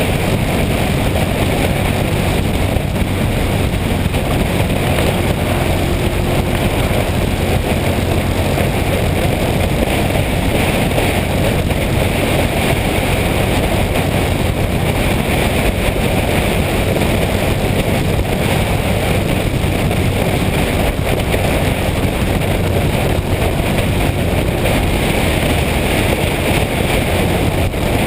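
Motorcycle under way at a steady speed: a steady engine drone under loud wind noise on the microphone.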